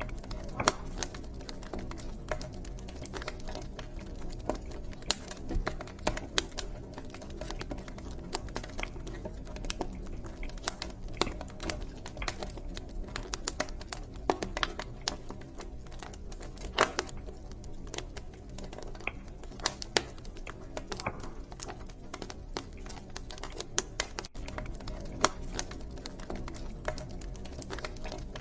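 Wood fire crackling in a fireplace: irregular sharp pops and snaps, several a second, over a steady low background of the burning flames.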